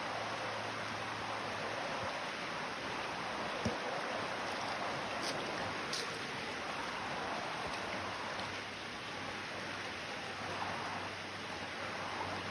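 Steady rushing of flowing creek water, with one short knock a little under four seconds in.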